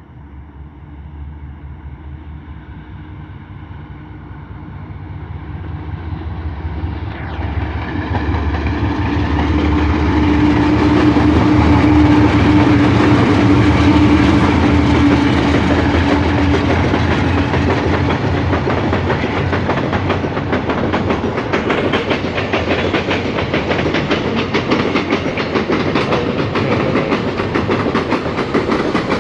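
Diesel-electric freight train approaching and passing, its locomotive engines droning louder until about ten seconds in. The wagons then roll by with a steady rapid clickety-clack of wheels over rail joints.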